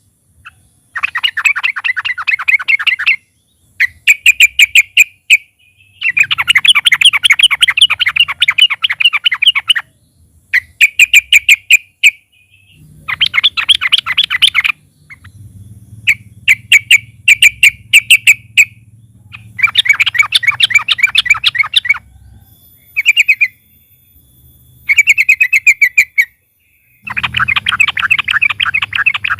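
Yellow-vented bulbul (trucukan) singing loudly in rapid chattering phrases of one to four seconds, with short pauses between them.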